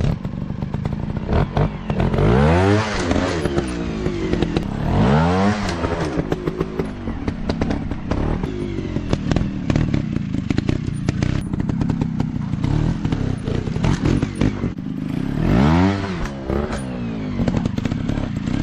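Dirt bike engine revving hard three times, its pitch climbing and falling back each time, about two, five and sixteen seconds in, with the engine running lower between revs and frequent clattering knocks throughout.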